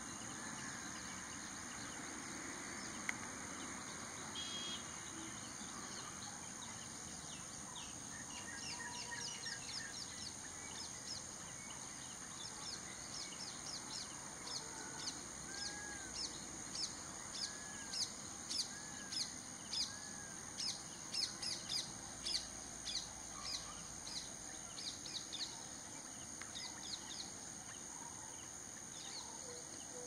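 Small birds calling: a long series of quick, high, down-slurred chirps, a few a second, that grow louder through the middle and fade near the end, with four lower arched whistles partway through. A steady high insect drone runs underneath.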